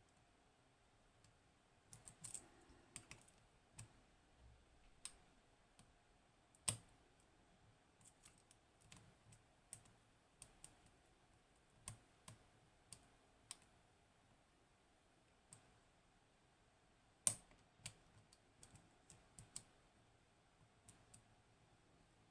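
Faint, irregular small metallic clicks of a lock pick and tension tool working the pins inside a Hori Trident high-pin-count lock, with two louder clicks, about 7 and 17 seconds in.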